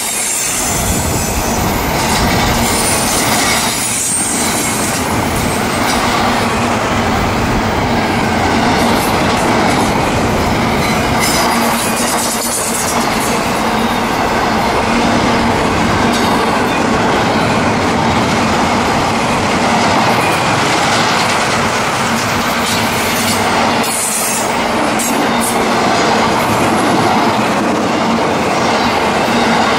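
A long CSX intermodal freight train rolling steadily past at close range. Its wheels and railcars make a continuous rumble and clatter over the rails, with brief high wheel squeals now and then.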